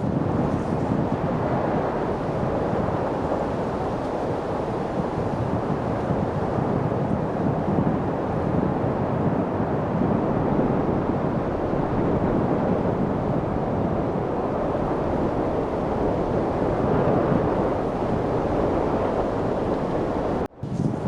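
Steady wind rushing as an even, deep hiss with no gusts or distinct events. Near the end it cuts out for a fraction of a second and comes straight back.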